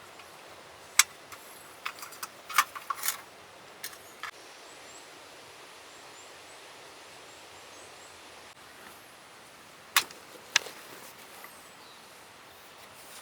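Sharp, irregular clicks and knocks of camping gear being handled while pitching camp: one about a second in, a quick cluster a second later, and two more near the end. Behind them runs a steady hiss of forest and river ambience.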